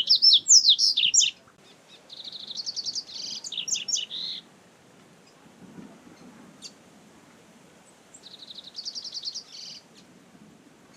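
Double-collared seedeater (coleiro) singing in three bursts: a loud phrase of quick, high sweeping notes at the start, a rapid trill running into jumbled notes about two seconds in, and another rapid trill about eight seconds in.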